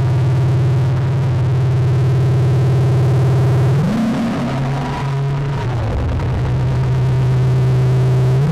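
Soma Lyra-8 analog drone synthesizer sounding a dense, steady low drone of several stacked tones. About four seconds in, its tones swoop up in pitch and slide back down over a couple of seconds, then settle into the steady drone again.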